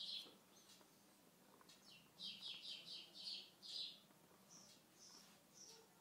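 Faint bird chirping: a quick run of about six short high notes in the middle, then a few higher, thinner notes near the end.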